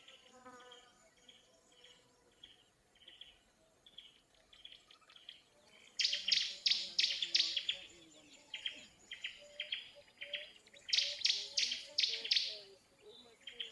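Birds calling in the bush: short chirps repeated steadily throughout, broken twice by a loud, rapid run of notes, about four a second, about six seconds in and again near the eleventh second.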